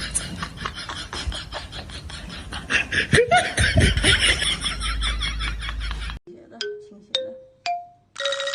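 A noisy stretch of crackling clicks with a short pitched cry about three seconds in. It cuts off suddenly, and a few separate chime-like notes follow, then a descending run of tones: a comic musical sound effect.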